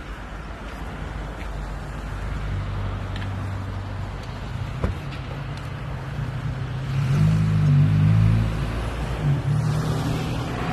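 A motor vehicle's engine running steadily, growing louder for a second or two about two-thirds of the way through. A single sharp click about five seconds in.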